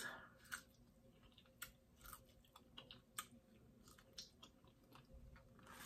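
Faint chewing of a fresh strawberry, with scattered soft wet mouth clicks.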